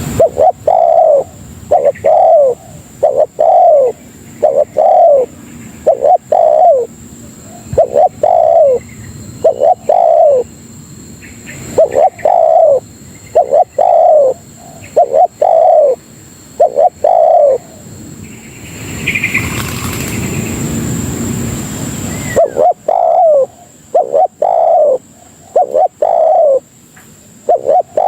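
Spotted dove (tekukur) cooing: a long series of short, falling coo notes in small groups. The calls break off for about four seconds in the second half, then start again.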